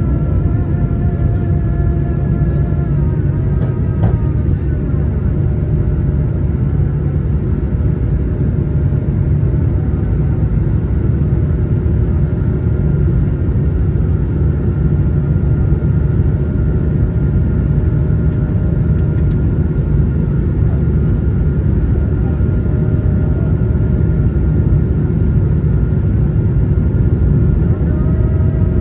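Cabin noise of an Airbus A220-100 with its Pratt & Whitney PW1500G geared turbofans running: a steady, loud rumble under thin engine whine tones. The whine tones fade about three seconds in and come back near the end, as the engine setting changes.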